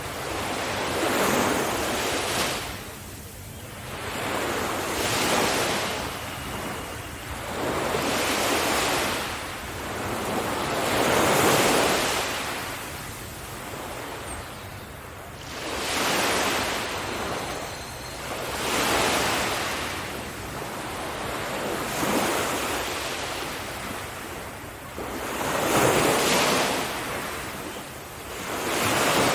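Sea waves breaking and washing up a sandy beach, one after another, the surf swelling and falling back about every three to four seconds.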